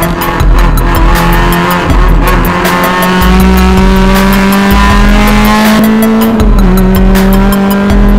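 Honda Civic race car engine at high revs, heard from inside the stripped cabin, pulling steadily with its pitch slowly rising. About six seconds in the pitch drops at a gearshift, then starts climbing again.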